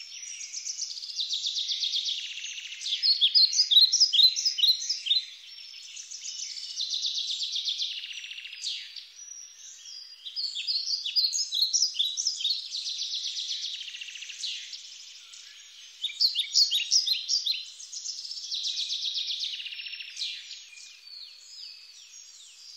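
Forest birdsong: rapid chirps and trilled song phrases, coming in bursts every few seconds with quieter twittering between.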